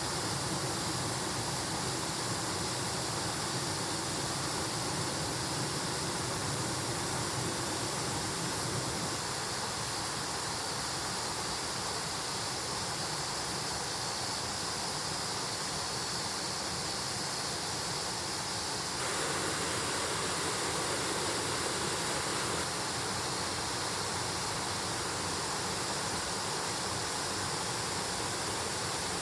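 Mountain stream flowing: a steady rush of running water, its character shifting abruptly a few times.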